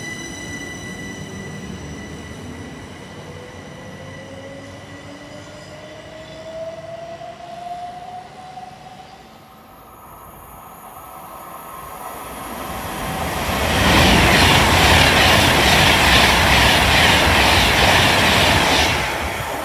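Southern Class 377 Electrostar electric multiple unit pulling away, its traction motors whining with a pitch that rises as it gathers speed. Later an Avanti West Coast express passes through at speed: a loud rushing rumble of wheels on rail that builds up, holds for about five seconds and drops away near the end.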